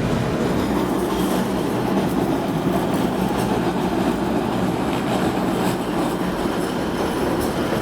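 Tram running along its tracks: steady rumble of wheels on rail, with occasional clicks over the rails.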